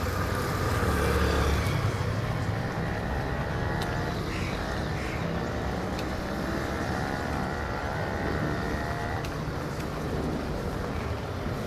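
Street traffic: a motor vehicle's engine passes, its pitch rising slowly over several seconds, over a steady background hiss and a low rumble that is heavier near the start.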